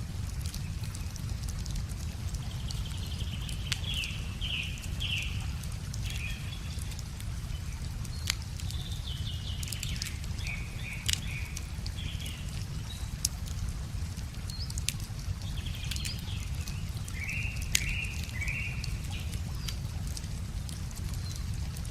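Wood fire crackling with scattered sharp pops, over a steady low rush of a river. Songbirds sing short repeated chirping phrases on and off.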